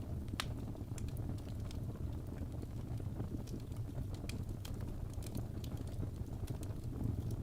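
Wood fire burning in a fireplace: a steady low rumble of flames with scattered, irregular crackles and small pops from the burning logs, one sharper pop about half a second in.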